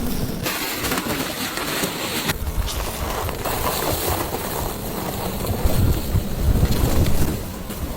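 Strong wind blowing and buffeting the microphone. The noise changes abruptly a few times.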